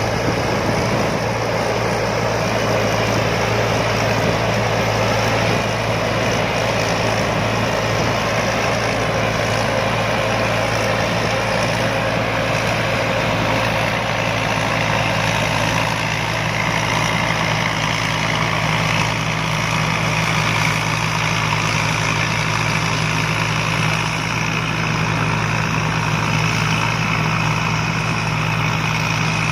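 Rice combine harvester running steadily, its engine holding a constant speed with a deep, even hum.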